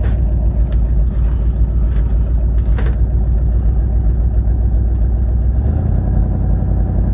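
Early-'70s Ford F100 pickup engine running steadily, just after a cold start, as it is left to settle into an idle; its note shifts about six seconds in. A few short clicks sound in the first three seconds.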